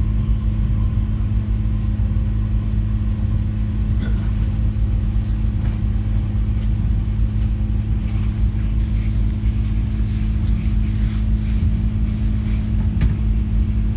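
Passenger train running at steady speed, heard from inside the carriage: a constant low drone and rumble, with a few faint clicks along the way.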